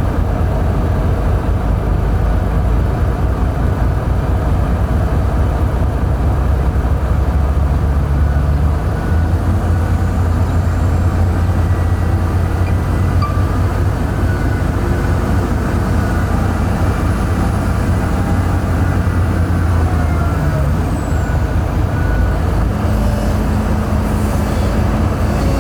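Heavy diesel engine running steadily with a deep drone. Its pitch shifts a few times, a step near the middle and another about three quarters of the way through, as the engine is worked harder and eased off.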